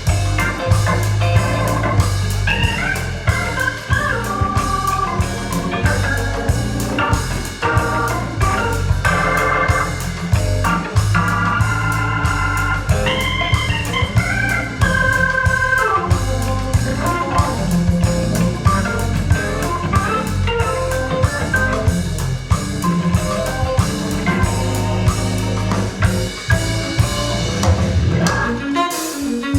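Instrumental music with organ, bass and drums played back over hi-fi loudspeakers, with a short break near the end.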